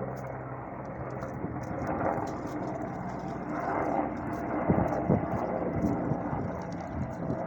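Helicopter flying, a steady engine and rotor drone, with a few short knocks about five seconds in.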